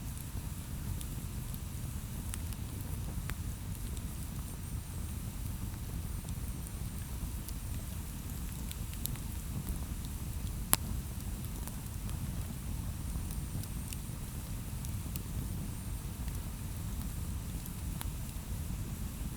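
Wood campfire burning: a steady low rumble of the flames with scattered sharp crackles and pops, the loudest pop about eleven seconds in.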